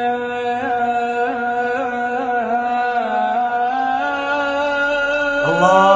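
A man's voice singing unaccompanied in Arabic, holding a long, wavering note with small ornamental turns. Near the end a louder, lower note comes in.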